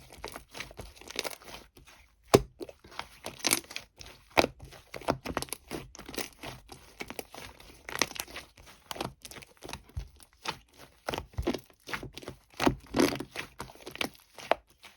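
Hands kneading and stretching a two-layer slime, making irregular sticky crackles, pops and tearing sounds, with a few louder snaps.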